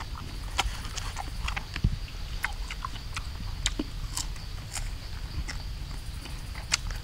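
Crunching and chewing of crisp sour fruit: irregular sharp clicks and crunches, over a steady high insect buzz.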